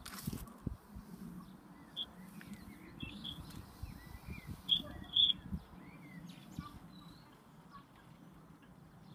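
Wild birds singing outdoors: short clear whistled notes and little chirps, the loudest pair coming about halfway through, over a low rumble.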